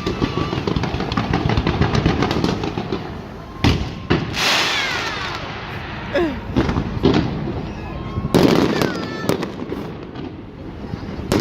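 Fireworks going off: dense crackling, then several sharp bangs, one followed by a long falling whistle.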